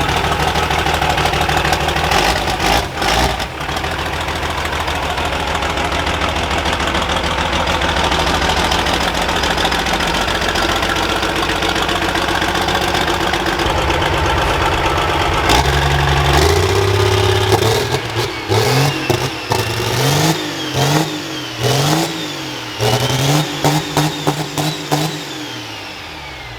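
Monster truck's Cummins turbo-diesel engine running steadily, then revved up and down again and again in the second half.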